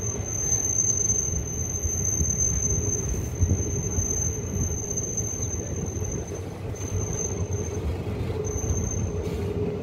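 Passenger train coach running along the track into a station: a steady low rumble of wheels on rails, with a thin high-pitched wheel squeal that drops out briefly twice.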